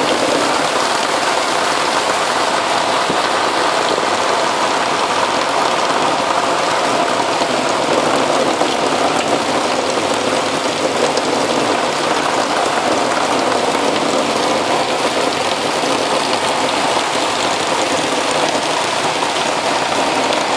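Heavy rain pouring down steadily, splashing onto a flooded street.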